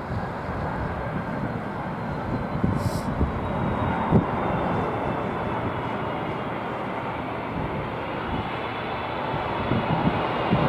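Jet engines of a Boeing 747-400F: a steady rumble with a faint high whine, slowly growing louder. Low gusts of wind buffet the microphone near the start and again near the end.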